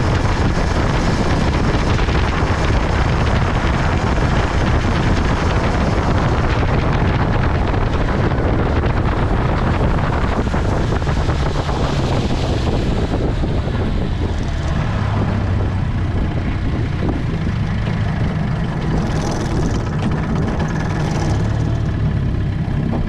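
1960 Gale Buccaneer 15 hp two-cylinder OMC outboard motor running steadily under way at speed, pushing the boat at about 21 to 22 mph. The sound eases a little about halfway through.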